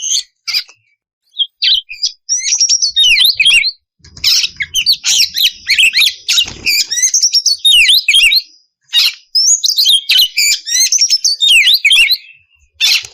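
Oriental magpie-robin (kacer) singing: rapid bursts of varied whistles and chattering phrases, broken by short pauses.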